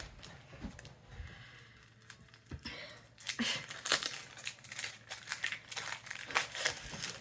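Packaging crinkling and tearing as a haul item is unwrapped: quiet at first, then rapid dense crackling from about three seconds in.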